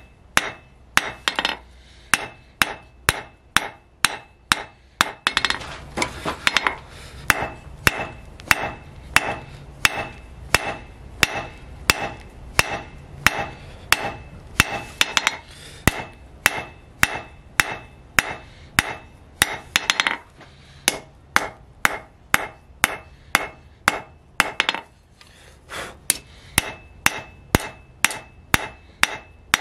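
Hand hammer forging steel on an anvil, a steady run of blows at about two a second, each strike ringing briefly.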